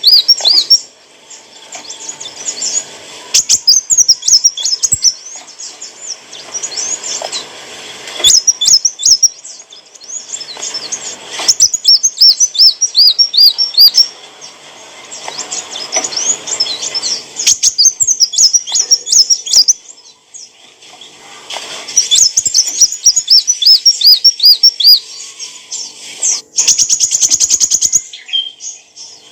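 Kolibri wulung sunbird singing: bursts of quick, high, repeated chirping notes in phrases a few seconds long with short pauses between them, and a rapid buzzy trill near the end.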